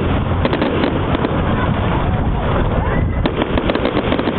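Fireworks display: a dense, continuous crackle of bangs and pops from exploding shells, with clusters of sharper cracks about half a second in and again from about three seconds in.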